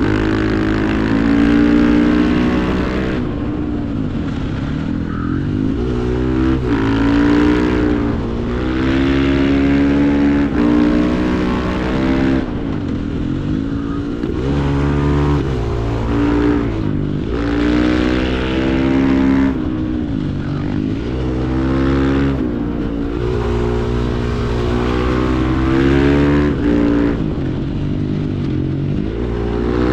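Supermoto motorcycle engine revving hard and climbing through the gears, then backing off, again and again through the whole stretch.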